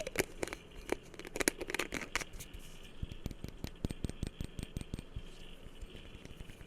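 Fingers tapping and handling an object in close-up, with quick crisp taps in the first two seconds, then softer, duller taps several a second.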